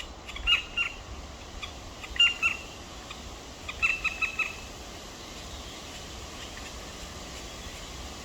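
Black woodpecker chicks calling: short, high, repeated calls in three quick clusters over the first four and a half seconds, the last cluster the longest at five or six calls. A steady hiss follows.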